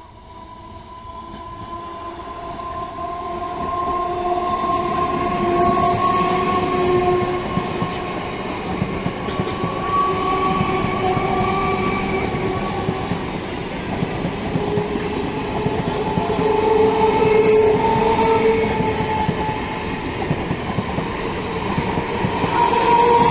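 A train approaching and running past on the tracks, its locomotive air horn sounding long, near-continuous multi-note honks that shift in pitch, over the rising rumble and clatter of the wheels.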